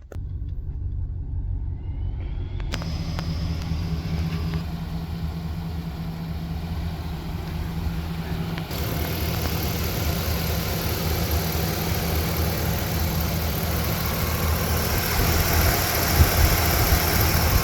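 A 2016 Chevy Silverado 2500's 6.0-litre gasoline V8 running steadily with a low hum. A hiss comes in a few seconds in and builds up over it toward the end.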